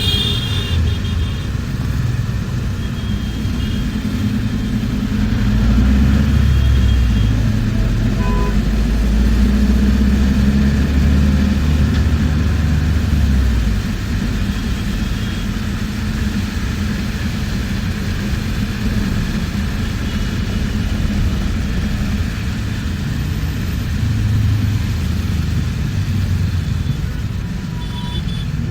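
Bus running in traffic, heard from inside the cabin: a steady engine and road rumble that grows heavier for several seconds about a quarter of the way in. Short horn beeps sound near the start and again near the end.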